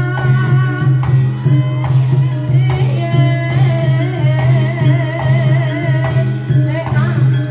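Live Javanese folk-performance music for reog and kuda lumping: drums strike a regular beat over a steady low drone, with a wavering melody line held above.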